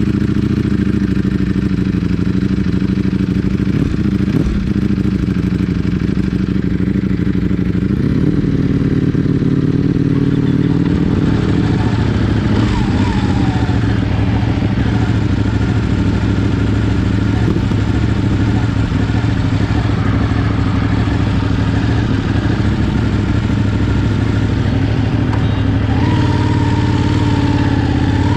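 Ducati Panigale superbike engine running under way, a steady loud engine note that shifts in pitch a couple of times, about 8 and 11 seconds in.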